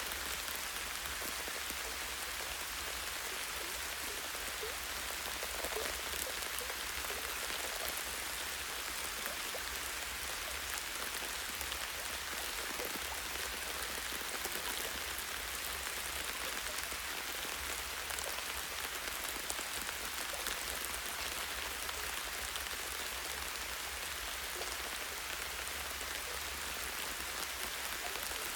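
Light rain falling steadily on a tree branch and its leaves: an even hiss of many small drops, with fine ticks of single drops landing.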